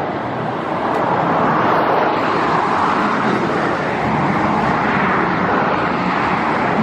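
Jet airliner engine noise: a loud, steady rush that swells about a second in.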